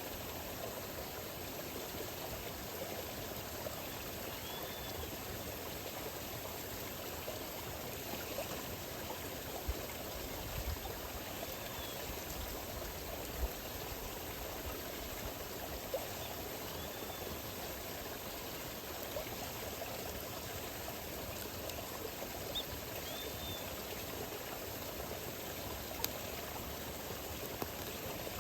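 Campfire burning: a steady rushing hiss with sharp pops and crackles every few seconds.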